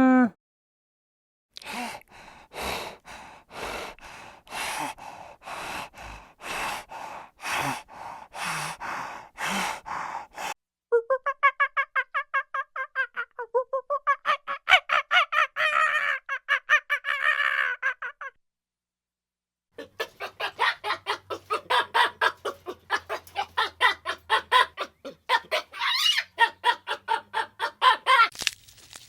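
A series of animal calls: first a run of evenly spaced calls about a second apart, then, after short gaps, two stretches of rapid chattering calls repeated several times a second.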